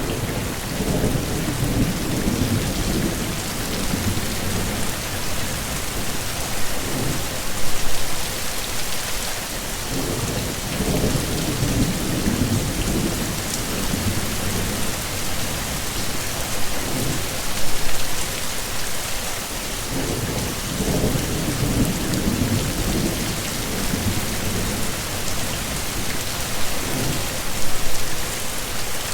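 Heavy rain falling steadily in an even hiss, with low rumbles of thunder swelling and fading several times. Short louder surges come about every ten seconds.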